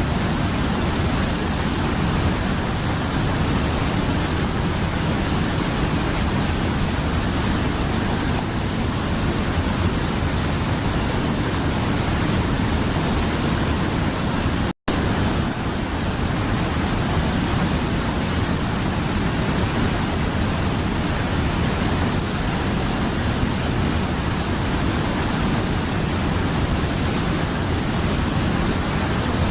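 A mountain river rushing steadily over its bed, a dense, even roar of flowing water. The sound cuts out for an instant about halfway through, then carries on unchanged.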